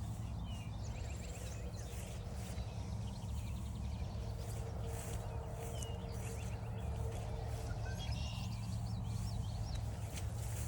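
Footsteps along a forest trail, roughly one a second, with several songbirds chirping and trilling over a steady low rumble.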